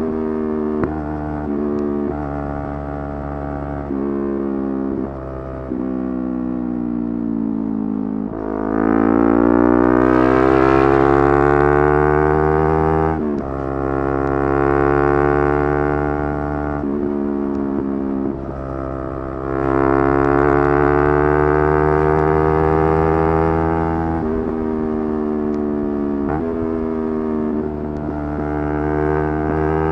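Yamaha R3's 321 cc parallel-twin engine revving hard at high rpm. Its pitch climbs steeply and drops sharply at each upshift, twice in long pulls through the gears, with shorter throttle changes and shifts in between.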